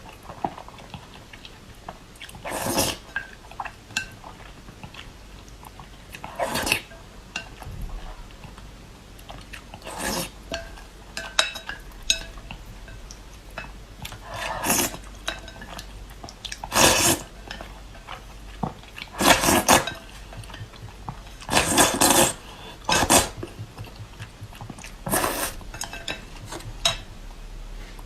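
Close-up eating sounds: a person eating spicy instant noodles, with a burst of mouth noise every few seconds and light clinks of utensils against the bowl in between.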